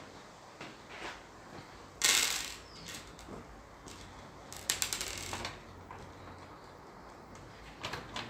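Workbench handling noises: scattered clicks and knocks of tools and parts. There is a loud, short hiss about two seconds in and a quick rattle of clicks around five seconds.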